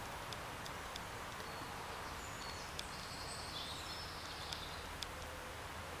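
Outdoor woodland ambience: a steady background hiss with a bird singing a short run of high whistled notes in the middle, and a few faint clicks of the camera being handled.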